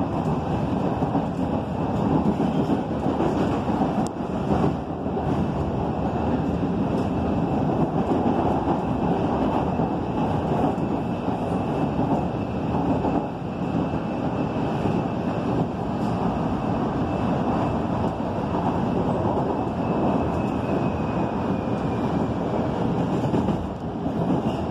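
Electric commuter train heard from inside the carriage while running between stations: a steady rumble and rattle of wheels on rail, with a faint high whine that drops a little in pitch near the end.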